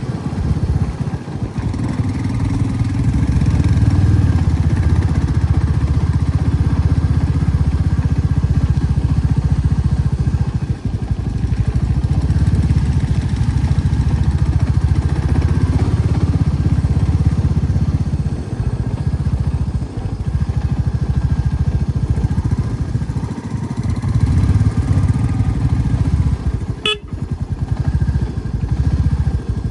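Motorcycle engine running steadily while riding, with small rises and dips in level. A single sharp click comes near the end.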